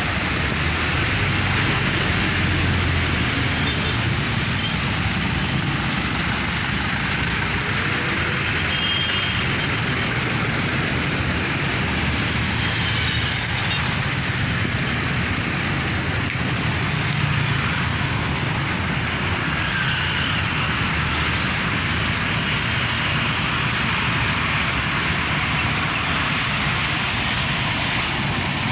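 Dense, congested road traffic with trucks, buses and cars passing, their engines and tyres making a steady, unbroken noise.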